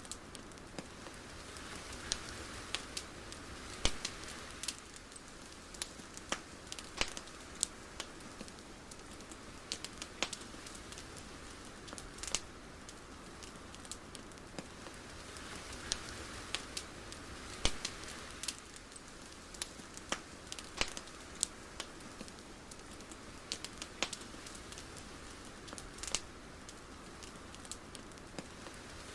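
Ambient crackling: scattered sharp clicks and pops at irregular times over a soft hiss that swells and fades about every fourteen seconds.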